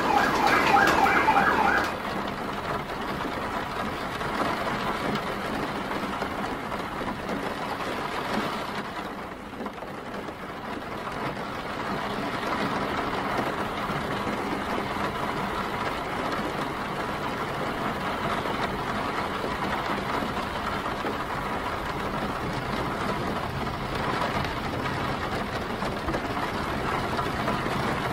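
Steady rain with city street traffic noise. An emergency-vehicle siren, its pitch wavering quickly, sounds loudly in the first two seconds. The even wash of rain and traffic then carries on, dipping briefly about nine seconds in.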